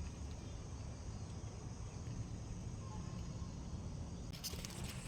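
Outdoor ambience: a steady low rumble, with a brief burst of crackling rustle about four seconds in.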